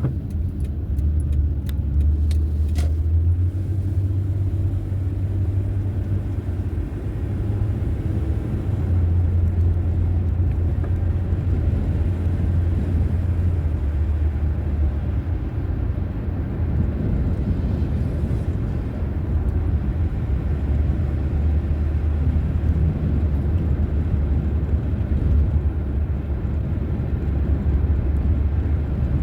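Car on the move: steady low rumble of road and engine noise, with a few light clicks about a second or two in.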